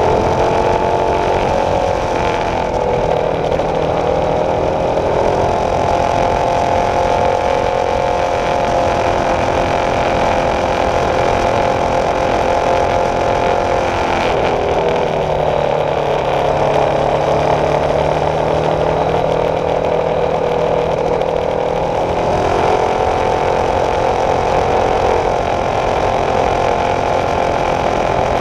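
Honda CB300F's single-cylinder engine running under way, its pitch dropping as the throttle is eased about 2 s and again about 14 s in, and climbing back as it pulls again.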